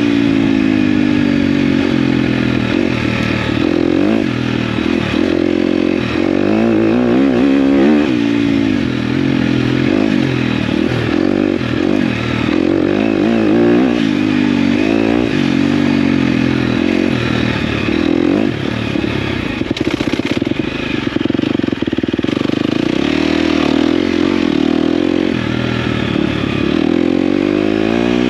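KTM dirt bike engine running under load while riding, its pitch rising and falling over and over as the rider accelerates, backs off and shifts.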